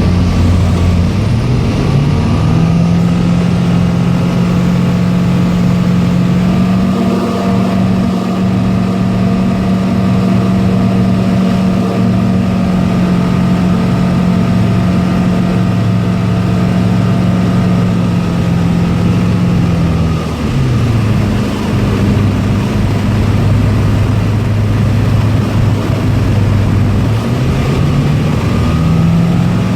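Tecnam P92 Echo light aircraft's piston engine and propeller running steadily. Power comes back about twenty seconds in, lowering the engine note, then goes up again near the end.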